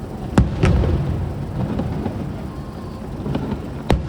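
Aerial fireworks shells bursting: two sharp bangs in quick succession about half a second in and another near the end, over a continuous low rumble of booms echoing.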